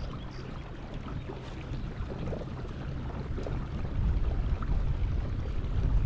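Wind rumbling on the microphone over water noise on the lake, growing steadily louder.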